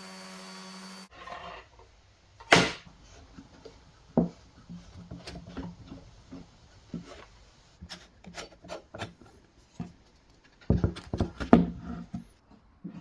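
A steady machine hum cuts off suddenly about a second in. Then comes a run of irregular wooden knocks and scraping as plywood pieces are handled, with a loud knock a couple of seconds in and a dense cluster near the end.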